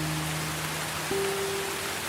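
Steady rain hiss overlaid with soft, held low notes of calm ambient music; a new, higher note comes in about a second in.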